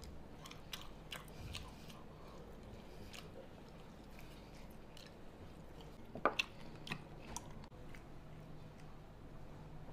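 A person chewing and biting pig's trotter meat and skin: wet mouth sounds and scattered short clicks, with the sharpest cluster about six to seven seconds in.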